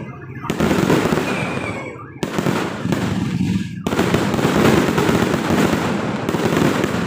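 Fireworks going off in a dense, continuous crackle, with sudden loud surges about half a second, two seconds and four seconds in.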